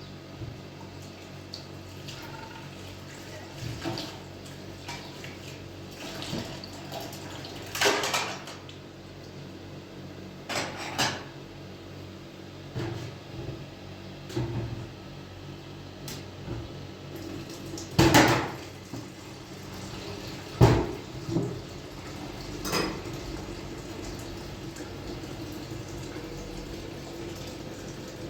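Dishes and pots being washed by hand: irregular clinks and knocks every few seconds, the loudest about eighteen and twenty-one seconds in, over a steady background of running water.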